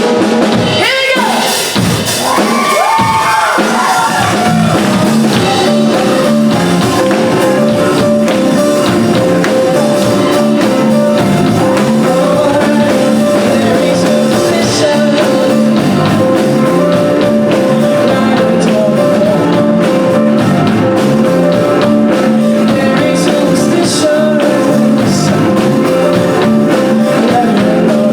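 A live band playing, with a voice sliding through wailing pitch glides over the first few seconds, then steady full-band playing with a repeating riff.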